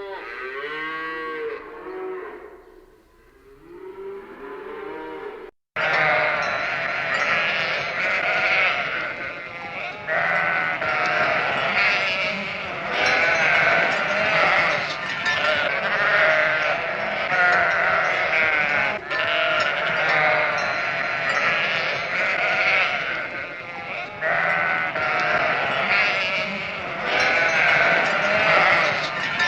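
A flock of sheep bleating, many calls overlapping almost without pause. Before it, a quieter clip of separate animal calls cuts off abruptly about six seconds in.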